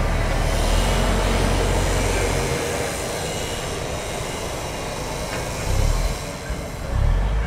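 RhB Tm 2/2 diesel shunting tractor moving slowly on narrow-gauge track with a flat wagon, its engine running low and steady, easing off about two and a half seconds in, with wheel and rail noise and a faint squeal. An electric passenger train approaches behind it.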